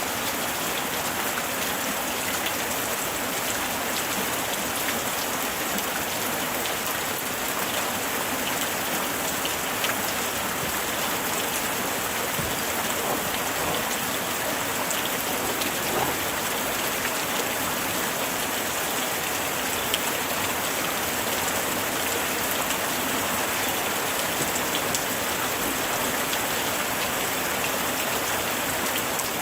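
Steady light rain falling on surfaces, a dense even patter with scattered individual drops ticking out of it.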